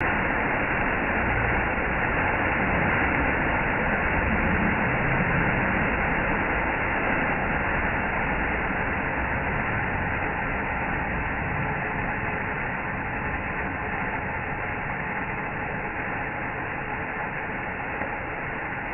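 Waterfall rushing: a steady, even roar of falling water that eases slightly toward the end.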